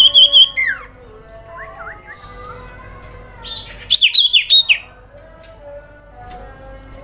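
Common iora (cipoh/sirpu) calling: a quick run of sharp, repeated high chirps in the first second, then another loud burst of down-slurred notes about three and a half seconds in. Softer whistled notes carry on underneath.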